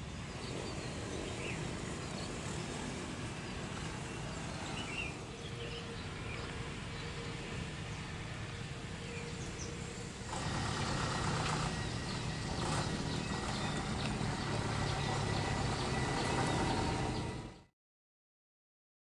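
Airliner jet engines running, heard from a distance as a steady rumble with a faint whine. The sound grows louder about ten seconds in and cuts off abruptly near the end.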